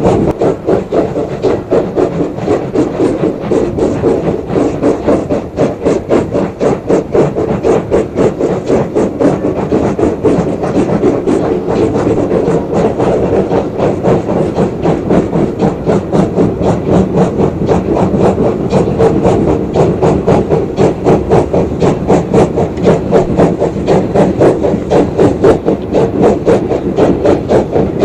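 Steam locomotive chuffing steadily at about two to three exhaust beats a second.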